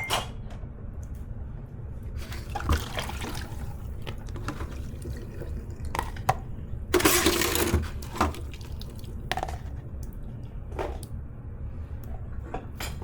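Dishes being washed at a kitchen sink: water splashing from the tap in short bursts, the loudest about seven seconds in, with dishes and cutlery clinking now and then.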